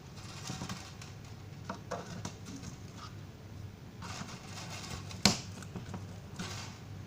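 Handling sounds: several short scrapes and rustles and a few small ticks, with one sharp click about five seconds in, over a steady low hum.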